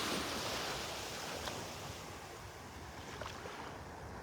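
Small waves washing in shallow surf, the wash loudest at first and fading steadily over a few seconds.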